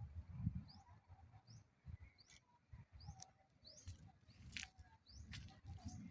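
A small bird chirping faintly: a string of short, high, rising chirps repeated every half second or so, over a low rumble.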